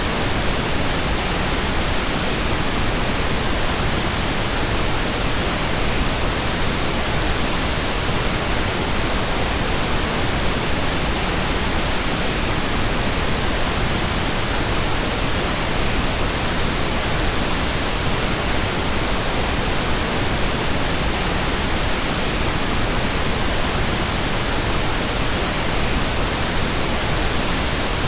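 Synthetic pink noise: a steady, even hiss spread across all frequencies, with no changes or events.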